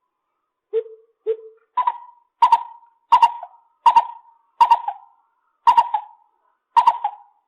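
Lesser coucal calling a series of hollow hoots: two low notes, then seven louder notes at a higher pitch, evenly spaced about a second apart.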